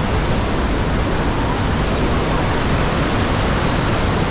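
Rhine Falls, a large waterfall, pouring as a loud, steady, even rush of water.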